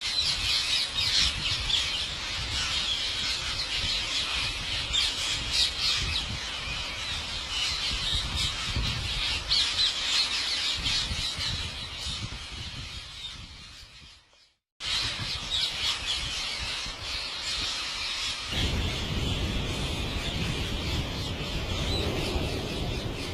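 A flock of parrots squawking and chattering together in a dense, continuous din. It cuts out briefly about two-thirds of the way through, then resumes with a low rumble underneath.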